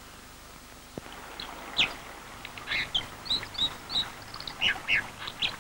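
Songbirds calling: a string of short, high chirps and whistles begins about one and a half seconds in, over a faint hiss, with a single click just before.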